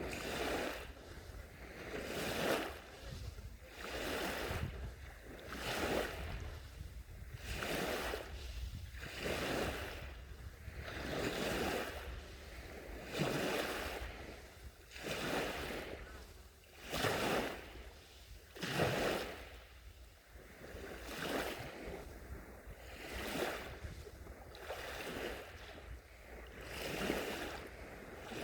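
Gentle sea waves washing onto the shore in an even rhythm, a soft swish a little more often than once a second, some louder than others.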